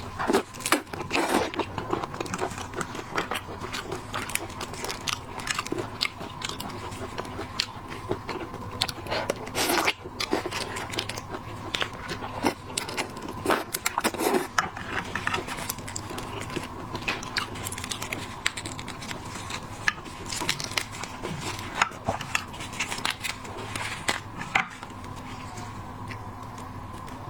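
Close-miked eating of seafood: irregular biting, chewing and crunching with sharp clicks. These stop about 25 seconds in, leaving only a steady faint hum.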